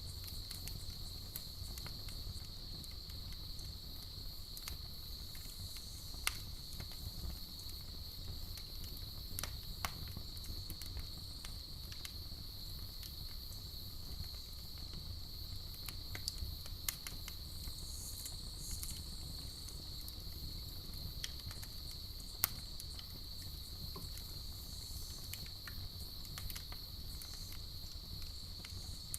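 Campfire crackling, with scattered sharp pops, over a steady high-pitched trill of night insects.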